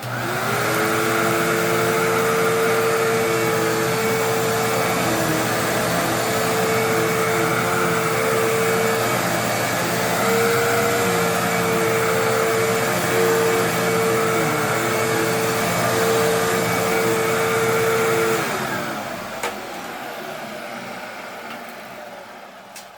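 Bagless upright vacuum cleaner running, a steady motor whine over rushing air, spinning up in pitch at the start. About 18 seconds in it is switched off and winds down, the whine falling in pitch and fading.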